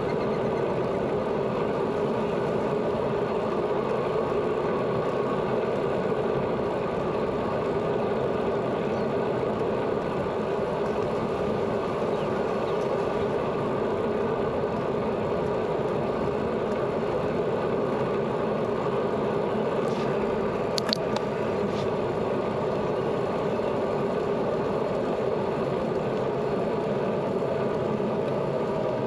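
Steady rolling noise of a bicycle in motion on the road, tyre and wind noise with no speech. A few sharp clicks come about two-thirds of the way in.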